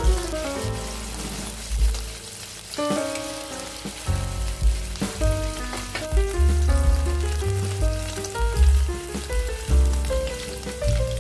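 Paneer sticks sizzling as they shallow-fry in oil in a nonstick pan, a steady hiss under louder background music with a clear melody and bass line.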